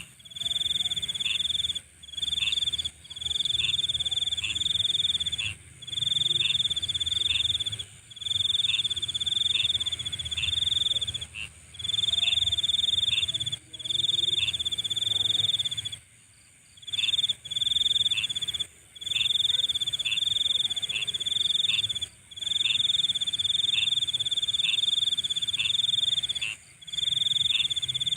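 Night insect chorus: a loud, high trill repeats in phrases of one to two seconds separated by short gaps, over a steady higher-pitched insect hum. The whole chorus cuts out briefly several times, for nearly a second about halfway through.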